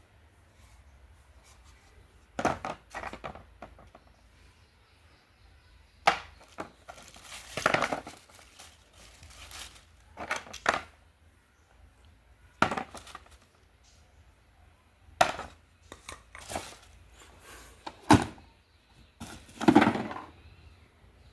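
Irregular handling noises from unpacking: sharp knocks and short bouts of clatter and crinkling, about a dozen separate events with brief pauses between them.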